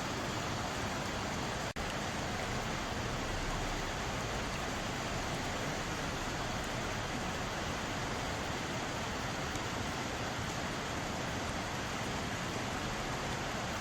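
Mountain valley stream, water rushing steadily over rocks, with one momentary dropout just under two seconds in.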